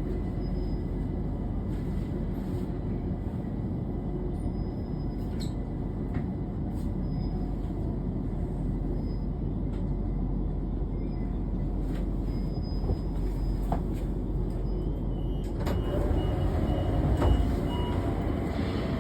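London Overground class 378 electric train heard from inside a carriage while running: a steady low rumble of wheels on track. About fifteen seconds in it grows louder and harsher, with a faint on-and-off squeal.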